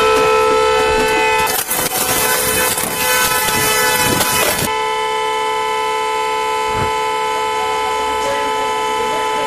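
A steady, unbroken horn-like tone, held at one pitch throughout, with a loud rushing noise over it from about one and a half to four and a half seconds in.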